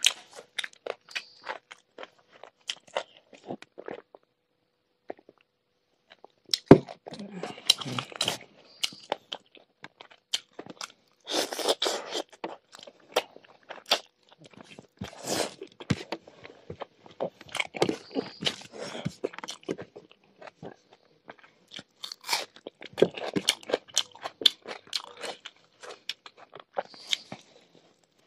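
A person eating rice and pork curry with raw cucumber and stink beans, chewing and crunching close to the microphone with quick wet clicking mouth sounds. The eating pauses for about two seconds a few seconds in, and resumes with a sharp loud click.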